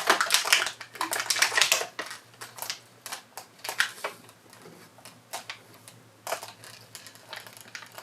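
Toy packaging being handled and pulled at: a run of crinkling, crackling and clicking, dense for the first two seconds, then sparser.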